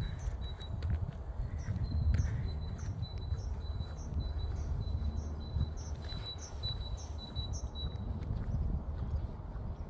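A small songbird singing a repeated two-note phrase, high and higher notes alternating a few times a second, stopping about eight seconds in, over a steady low rumble.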